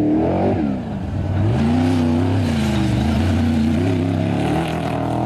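Off-road race vehicle's engine revving as it drives by: its pitch rises and falls with the throttle, dips about a second in, then climbs and holds a steady, slightly wavering note.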